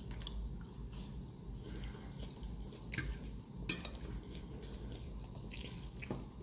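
Chewing a mouthful of salad over a low steady hum. Two sharp clicks about three seconds in, half a second apart, come from a fork against the dish.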